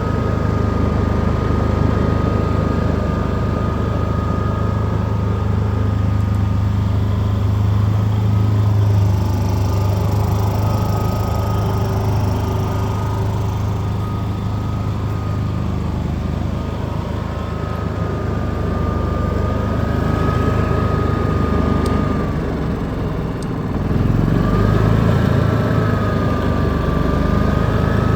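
Atlas Copco P6000i inverter generator running steadily, with a thin high whine that wavers in pitch. Its sound drops briefly about three quarters of the way through, then picks up again.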